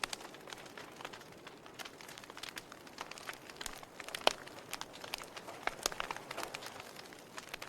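Fire crackling: a quick, irregular run of sharp pops and snaps over a soft hiss, with one loud pop about four seconds in.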